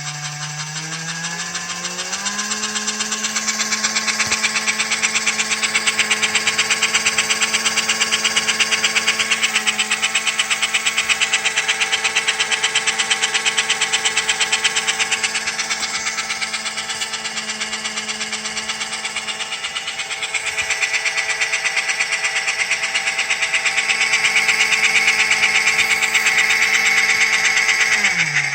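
Small electric motor and gears of an American Flyer HO scale locomotive running, a steady whine that speeds up over the first couple of seconds, holds, and winds down near the end. A fast rattling buzz runs with it, which the uploader puts down to a screwdriver against the wood.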